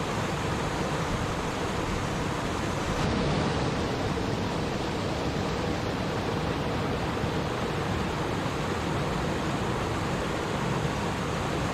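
Flowing stream water rushing and babbling, a steady unbroken wash of sound.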